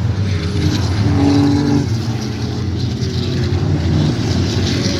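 Racing trucks' diesel engines running on the circuit, a loud steady drone with a brief held tone about a second in.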